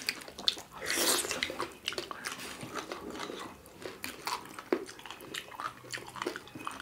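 Close-up eating sounds of people eating by hand: wet chewing and lip smacking of soft millet dhido with chicken curry and greens, with fingers squishing food on metal plates. The sounds come as many short, irregular clicks, with a louder, noisier stretch about a second in.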